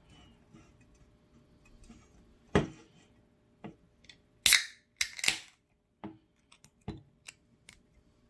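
A beer container being handled and opened: a loud knock, a few light clicks, then two short sharp bursts in the middle, followed by scattered light clicks.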